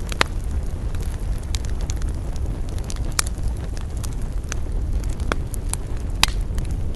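Wood campfire crackling, with sharp pops scattered through it, the loudest about a quarter second in, near three seconds in and near six seconds in, over a steady low rumble of wind.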